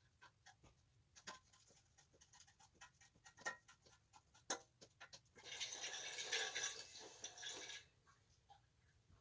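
Scattered light clicks and taps of hand tools on metal parts while a chain guard is fitted, then a hiss lasting about two seconds a little past halfway.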